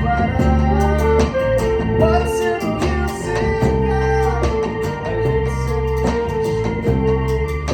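Live band playing an instrumental passage: guitar and organ-like keyboard over bass and a steady drum beat.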